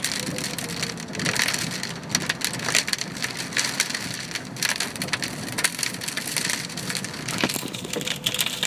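Rain striking a car's roof and windows, a dense patter of drops over a steady rushing hiss.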